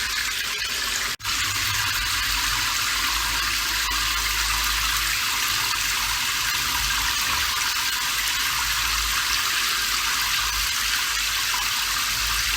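Steady rain, an even hiss, broken by a split-second dropout about a second in.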